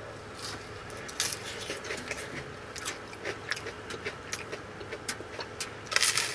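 A person biting and chewing a piece of pizza charred black, a run of small crunchy crackles with a louder crunch about six seconds in.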